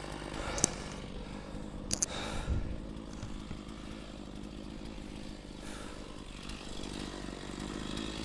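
Stihl MS460 chainsaw idling steadily, with two short sharp knocks about half a second and two seconds in.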